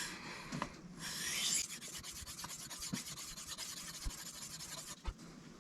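Knife blade scraped across a Sharpal 162N diamond sharpening plate: a longer stroke about a second in, then a run of quick, light strokes. A single knock comes near the end.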